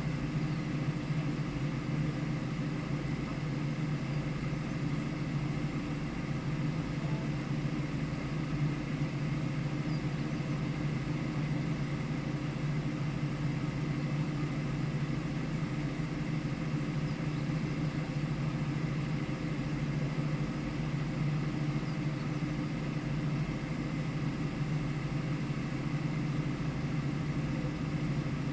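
Vehicle engine idling steadily at an even pitch, with no revving.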